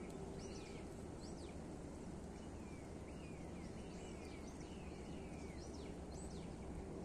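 Birds chirping: short calls that fall in pitch, about two a second, over a steady low rumble of background noise.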